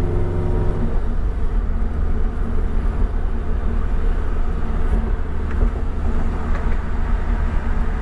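Car's flat-four boxer engine with an aftermarket-modified exhaust, heard from inside the cabin while driving, together with road noise. A steady droning note gives way about a second in to a lower, rougher rumble. The exhaust work has made it louder than stock, giving it the Subaru sound.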